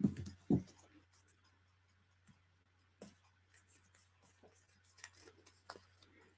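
Paper and small craft items handled on a desk while a piece is glued down: two soft knocks at the start, then light rustling and scattered ticks over a low steady hum.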